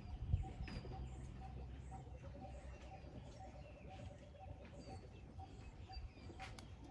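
Outdoor bird calls: a short note repeated about twice a second, with a lower pulsing trill from about two seconds in to about five seconds in. There is a low rumble near the start.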